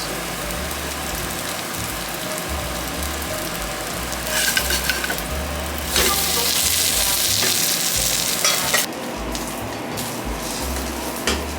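Food sizzling as it fries in hot oil in a pan, a steady crackling hiss that grows louder for about three seconds past the middle, with a few light clicks.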